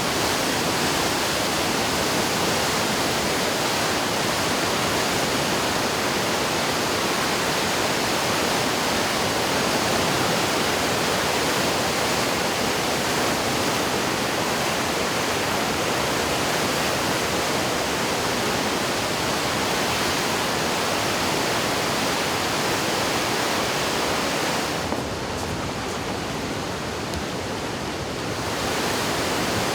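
Flood-swollen river water rushing in a steady, loud roar, the rise of a mountain river after typhoon rains. For about three seconds near the end the sound turns slightly softer and duller.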